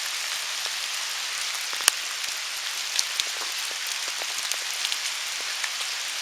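Steady rain falling, a continuous hiss dotted with sharp ticks of individual drops, one louder tap about two seconds in.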